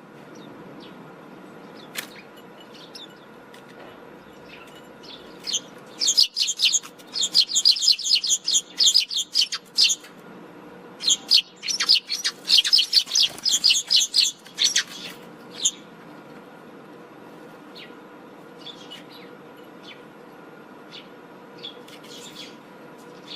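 Backyard birds chirping, with two bouts of rapid, loud chattering calls, one about six seconds in and one about eleven seconds in, each lasting about four seconds. Scattered single chirps fall before and after the bouts, over a faint steady hum.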